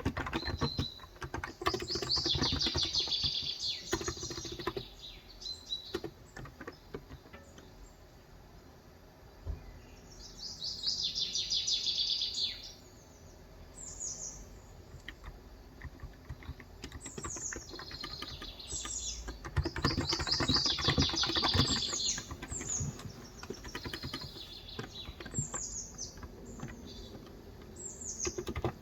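Typing on a Cox Endeavor tenkeyless keyboard with 35 g electrostatic capacitive switches: steady keystroke clicks in spells, thinning out for a few seconds after the first quarter. Over it, birds sing in repeated runs of short, quick, high chirps.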